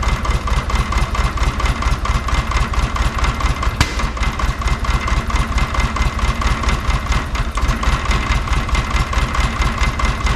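A VW Beetle's air-cooled 1500 flat-four idling roughly and unevenly, misfiring so that it sounds like a two-cylinder; the owners take it for two dead cylinders (number 3 among them). A single sharp click about four seconds in.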